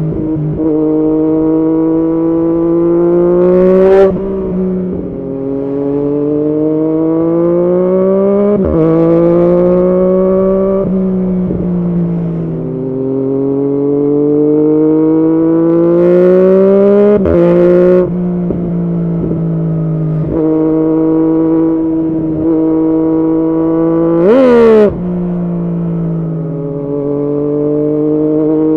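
Yamaha MT-09's 847 cc inline-three engine through an aftermarket Arrow exhaust, ridden through the gears: the note climbs steadily under acceleration and drops sharply at each upshift. There are a few brief, sharp bursts of revs along the way.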